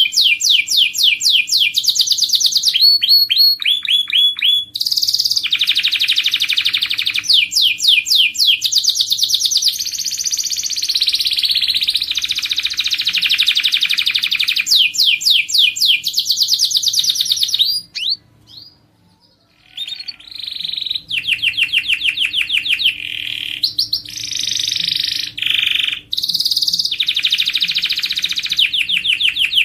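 Domestic canary singing: fast runs of repeated notes and rolling trills, each run at a different pitch and speed. The song breaks off briefly about 18 seconds in.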